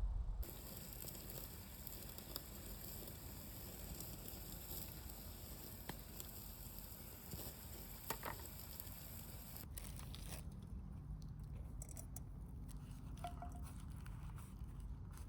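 Food sizzling in a frying pan over a campfire, a steady crackly hiss that cuts off about ten seconds in, leaving faint scattered crackles and ticks.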